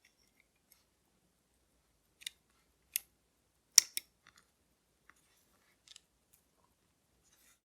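A handful of short, sharp clicks and snaps from watchmaker's hand tools and small watch parts being handled during reassembly, the loudest a double click about four seconds in, followed by a few fainter ticks.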